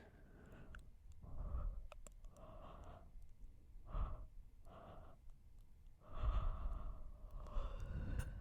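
Close-miked yawning and breathy sighs: a few short breathy exhales, then one long drawn-out yawn starting about six seconds in, with breath rumbling on the microphone.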